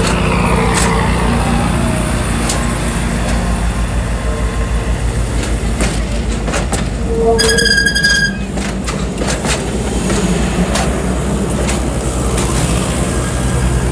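Norfolk Southern passenger cars rolling slowly past close by: a steady low rumble with wheels clicking over rail joints, and a brief high squeal a little past the middle.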